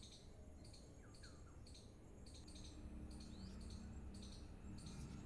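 Faint background birdsong: small birds chirping over and over, about twice a second, with a few short gliding calls. A faint low hum comes in about halfway.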